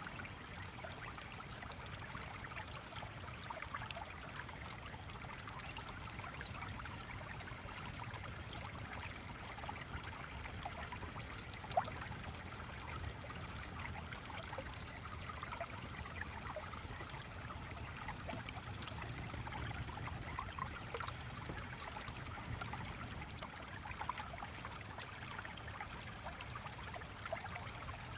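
A small stream trickling and babbling steadily, with scattered faint ticks and one sharper click about twelve seconds in.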